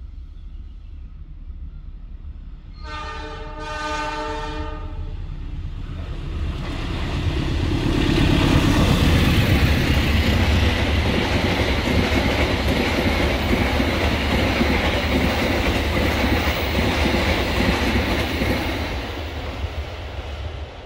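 A diesel-hauled passenger train sounds its multi-tone horn for about two seconds. The locomotive and a long rake of coaches then pass close by, a loud steady rumble of wheels running on the rails that builds, holds and starts to fade near the end.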